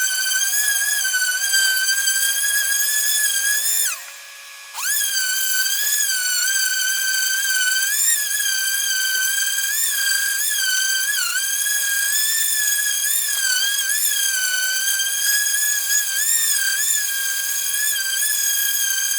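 High-speed power tool cutting wood with a steady high whine, its pitch dipping briefly again and again as it bites. It winds down and stops about four seconds in, then starts again within a second.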